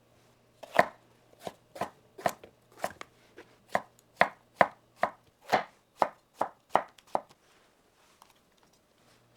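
Kitchen knife chopping on a cutting board, about sixteen sharp strikes at an uneven pace of two to three a second, stopping a couple of seconds before the end.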